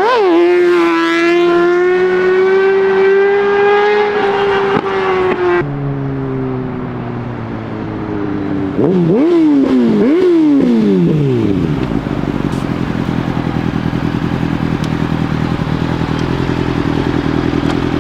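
Motorcycle engine held at high revs under throttle, then after an abrupt change several quick throttle blips that fall back to a steady idle.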